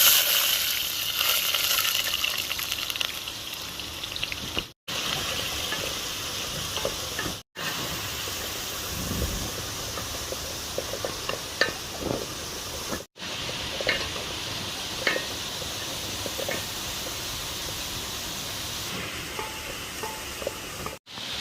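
Food sizzling loudly in a hot cooking pot, the sizzle fading over the first few seconds, then light clicks and scrapes of stirring over a steady rush of waterfall water. The sound drops out briefly four times.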